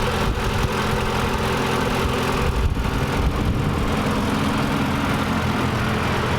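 Car engine running steadily at a constant speed, with no revving.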